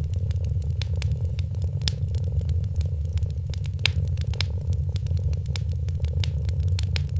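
Wood fire crackling, with many irregular sharp pops and snaps, over a cat's steady low purring.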